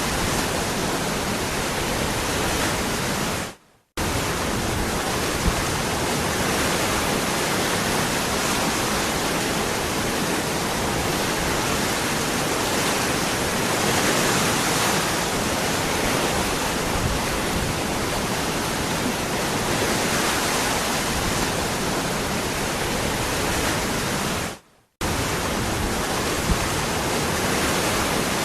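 Waterfall: a steady, even rush of falling water, which cuts out to silence for a split second twice, about four seconds in and again near the end.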